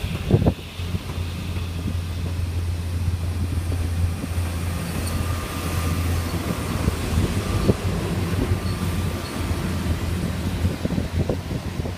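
Diesel locomotive running with a steady low drone, with a few low thumps.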